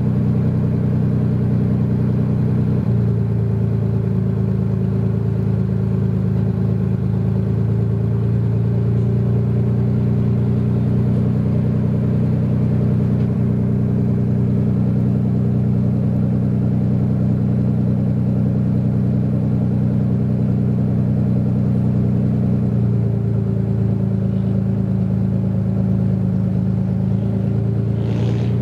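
A modified car's engine idling steadily, its low note shifting slightly about three seconds in and again near the end.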